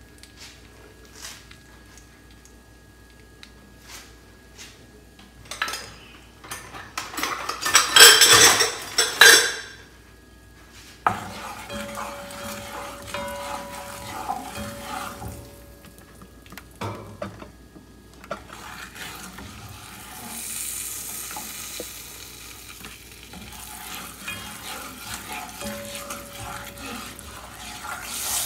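Curry frying in hot oil in a pot, sizzling and crackling, while a spatula stirs and scrapes against the pot with now and then a brief squeak. The loudest stretch comes about six to ten seconds in.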